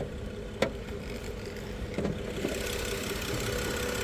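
BMW 535i GT's turbocharged straight-six idling steadily, with two light clicks. About two seconds in, the engine sound gets fuller and brighter.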